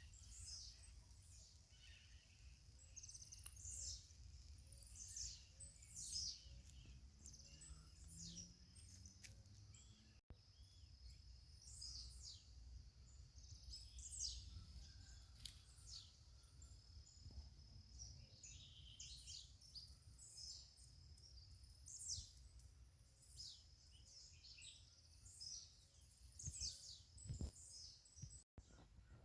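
Several small birds chirping and calling in quick, overlapping bursts, faint, over a steady high note and a constant low rumble. The audio drops out briefly twice.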